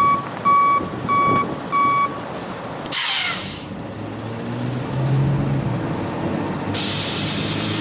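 A truck's reversing alarm beeps about twice a second for two seconds. A short hiss of air follows about three seconds in, then the engine runs with a low drone, and a loud steady hiss starts near the end.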